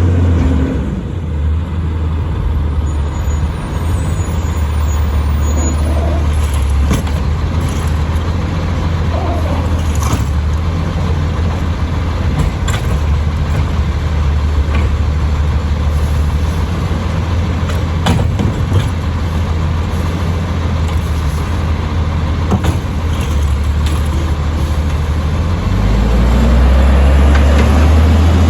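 Diesel engine of an Autocar side-load garbage truck with a Bridgeport body, running steadily, with a few sharp knocks along the way. The engine grows louder near the end.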